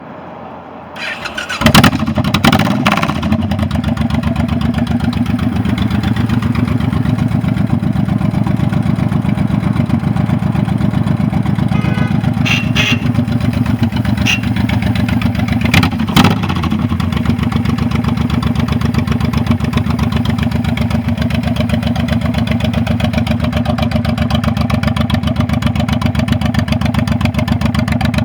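Honda VTX 1800S V-twin motorcycle engine cranked over and catching about two seconds in, with a couple of quick throttle blips. It then idles steadily with a pulsing beat, and is blipped twice more about halfway through.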